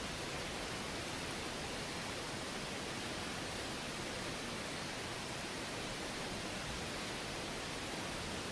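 Steady, even rushing of a river flowing past the campsite, with no breaks or distinct events.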